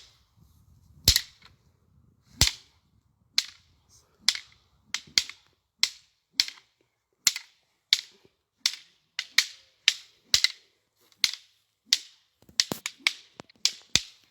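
Wooden fighting sticks clacking together in a stick-fighting drill. It is a string of sharp, irregular clacks, sparse at first and then coming faster, often in quick pairs.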